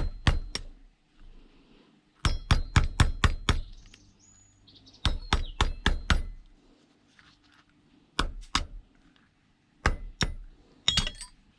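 Hammer blows on metal scrap, ringing, struck in quick runs of several blows with short pauses between, as parts are knocked loose to free the brass.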